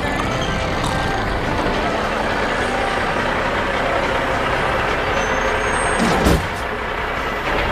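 Semi-truck running with dense road and engine noise, with a short, sharp air-brake hiss about six seconds in as it comes to a stop.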